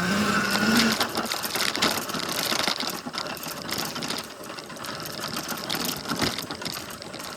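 Tuttio Soleil01 electric dirt bike ridden over bumpy trail ground, with fast, dense rattling and clattering from the bike. A steady low tone is heard in the first second.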